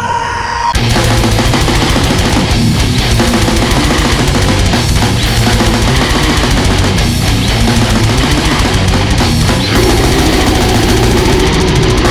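Heavy metal music with loud distorted electric guitars. It breaks in at full volume about a second in, after a quieter held tone, and keeps going dense and loud.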